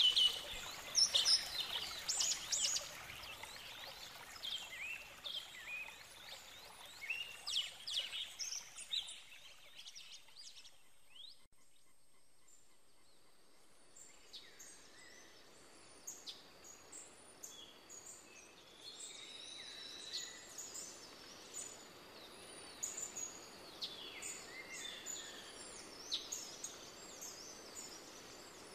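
Birds chirping and calling in woodland: many short, high calls, busiest in the first few seconds. They die away about ten seconds in and return a few seconds later, more scattered.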